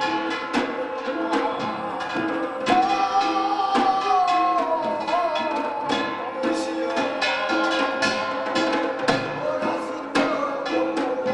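Korean samul nori percussion accompaniment for a biniari blessing chant: rapid drum and small-gong strikes over steady ringing metal tones. A held, wavering melodic line enters about three seconds in and slowly falls away.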